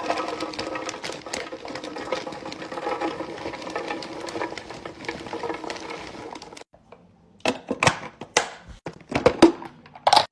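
Items being handled while a fridge is restocked: a dense run of rattling and clicking with a faint ringing, then after a short pause, several separate knocks and clinks as things are set down.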